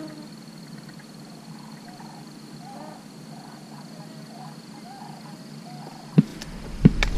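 Birds calling over the marsh in a loose series of short, curving notes, over a faint steady background with a thin high whine. Near the end, a few sharp clicks and knocks.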